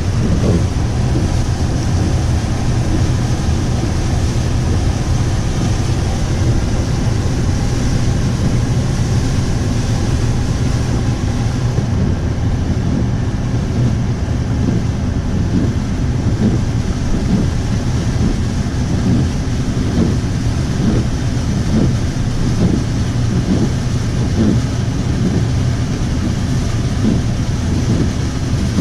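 Car driving through standing floodwater: a steady rumble of engine and tyres with water washing and splashing under the car.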